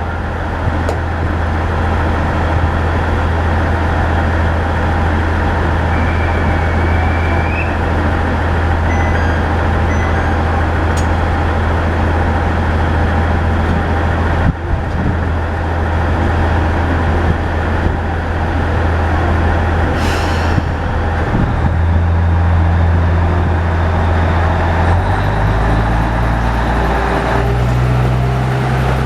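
KiHa 110 series diesel railcar's engine running under power as it pulls away, a steady low drone. Its note steps up in pitch twice in the last third.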